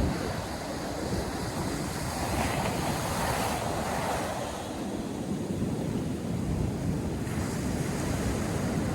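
North Sea surf breaking and washing up the beach in a steady rush, with one wave's wash swelling about two to four seconds in. Wind buffets the microphone with a low rumble.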